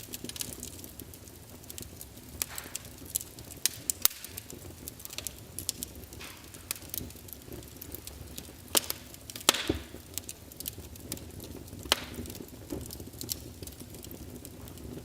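Wood fire in a fireplace crackling, with irregular sharp pops and snaps over a low steady rumble of flames. A few louder pops come in the second half.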